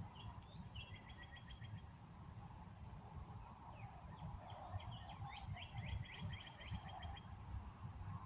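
Faint birdsong: two trills of rapid repeated notes, one about a second in and a longer one midway, with a few higher single notes.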